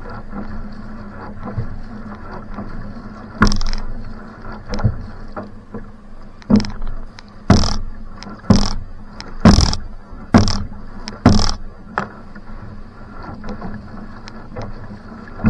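Va'a outrigger canoe paddle strokes: the blade catching the water in sharp splashes, a few at first and then about once a second through the middle, over a steady rushing noise.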